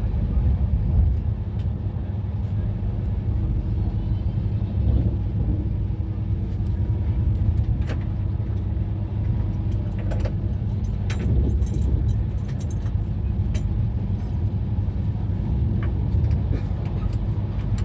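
Passenger train running, a steady low rumble with scattered light metallic rattles and clinks.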